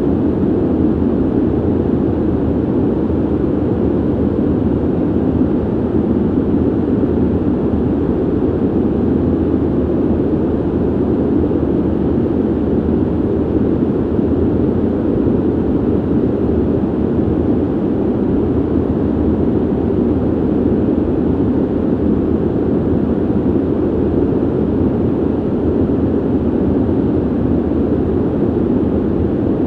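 Ventilation system blowing air: a steady, deep, even rush with little hiss on top.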